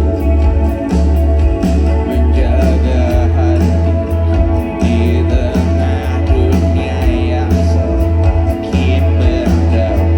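Live band music in a concert venue, recorded on a phone's microphone: a heavy, booming bass and a drum beat of about two hits a second, with singing in the mix.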